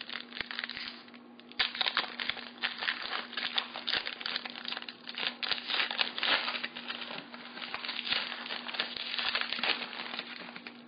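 Trading-card pack wrapper being torn open and crinkled by hand: dense, irregular crinkling and crackling, with a brief lull about a second in.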